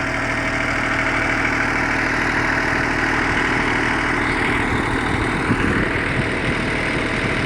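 Massey Ferguson tractor's diesel engine running steadily at low revs.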